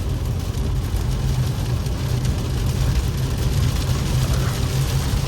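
Infiniti Q50S cruising in heavy rain, heard from inside the cabin: a steady low drone from the engine and road, under the hiss of rain and tyre spray.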